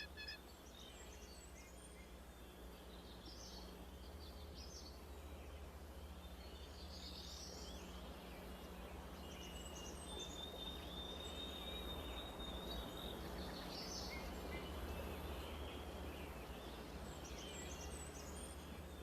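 Faint forest ambience: scattered short, high bird chirps over a soft hiss and a steady low hum. A thin, steady high whistle-like tone lasts about three seconds around the middle.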